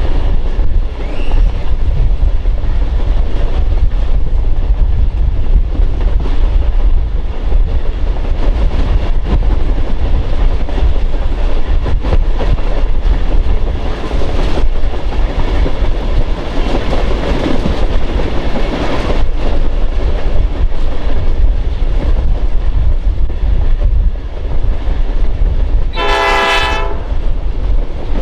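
A train running with a loud, steady rumble, and one short locomotive horn blast near the end.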